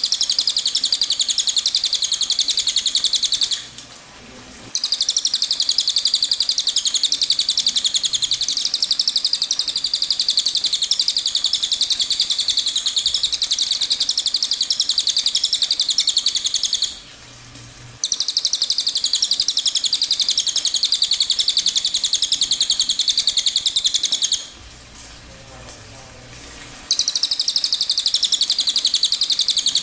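Recorded songbird song: long, loud phrases of very rapid high-pitched trilling notes, each phrase many seconds long, broken by short pauses about 4 s in, about 17 s in and around 25 s in.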